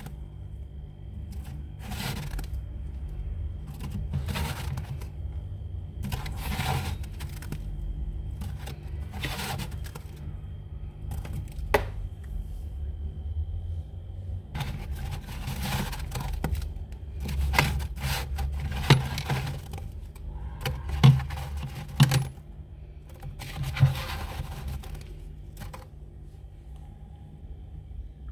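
Built-up frost being scraped off inside a freezer: repeated scraping strokes, about one every two seconds at first, then quicker and more irregular, with a few sharp knocks as chunks of ice break loose. A steady low hum runs underneath.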